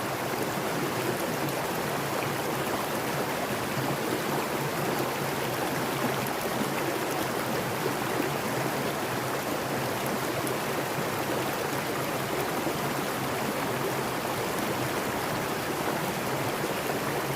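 A mountain stream rushing over rocks, a steady even rush of water.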